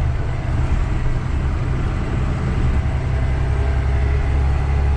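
Engine and drivetrain of a vehicle under way, a steady deep rumble that grows slightly heavier in the last second or so.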